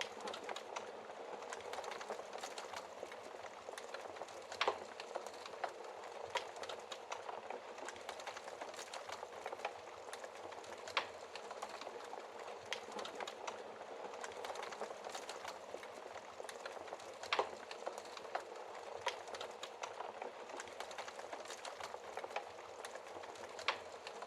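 Wood fire burning in a fireplace: a steady dense crackle with sharper pops here and there, the loudest a few seconds in, about halfway through and again about two-thirds of the way through.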